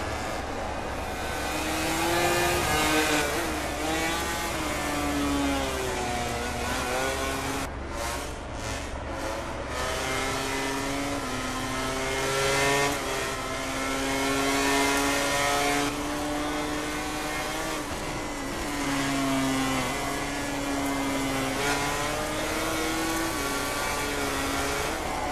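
MotoGP racing motorcycle engines at full race pace, revving up and dropping back repeatedly as the riders shift through the gears and brake for corners.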